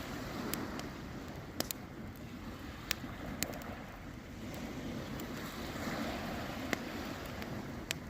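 Campfire wood crackling, with a handful of sharp single pops, over a steady rush of wind and surf that swells and eases.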